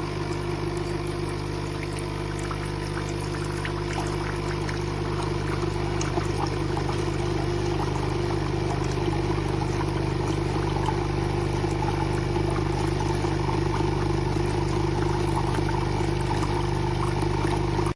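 Capsule coffee machine's pump humming steadily as it runs, with a continuous low buzz. It cuts off abruptly at the end.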